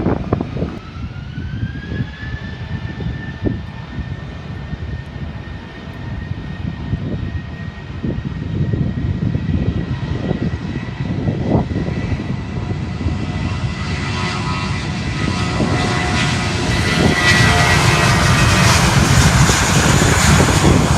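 Aircraft engines at an airport: a steady high whine that rises in pitch over the first two seconds, then holds, while a rushing engine noise builds and grows steadily louder through the second half as the plane comes closer. Wind rumbles on the microphone underneath.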